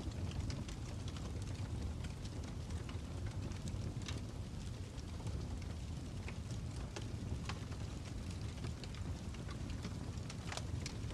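Fire crackling: a steady low rumble of burning with scattered sharp pops and crackles, a few louder pops standing out.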